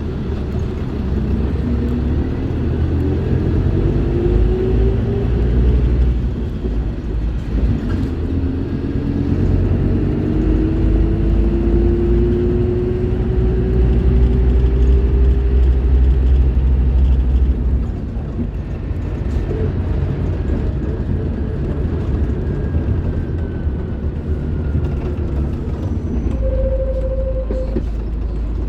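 Scania K310IB bus's diesel engine running under load as the bus drives, a heavy low rumble with a whine that rises in pitch, briefly near the start and then for several seconds. About two-thirds of the way through the engine note drops and the level falls, then it pulls steadily again.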